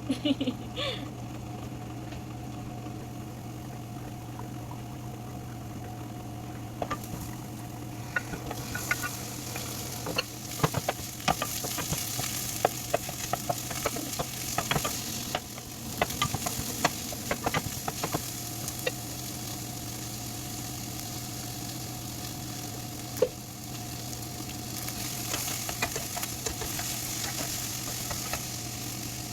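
Food sizzling as it fries in olive oil in a pan, the hiss strengthening after a few seconds, with a steady low hum underneath. A run of short clinks and knocks comes in the middle.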